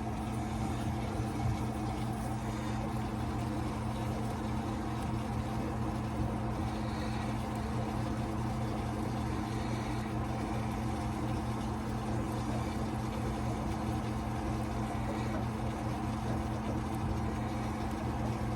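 A steady machine hum with a constant low tone, unchanging in level or pitch.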